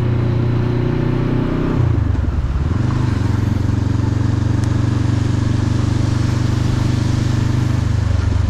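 Motorcycle engine running under way at a steady speed. About two seconds in, the engine note dips and breaks for a moment, then settles back into a steady drone.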